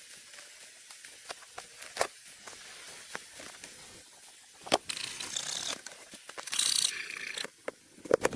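Scattered sharp clicks and light knocks, with two short bursts of scratchy, hissing noise about five and six and a half seconds in.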